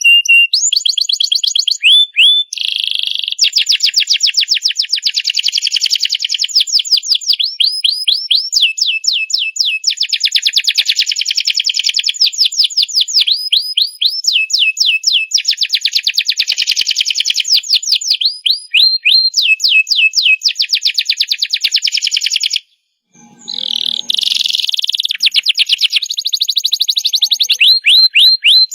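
Domestic canary singing a long, unbroken song of rapid trills: each phrase is a fast run of one repeated note, then it switches to another. The song breaks off briefly about three quarters of the way through, then carries on.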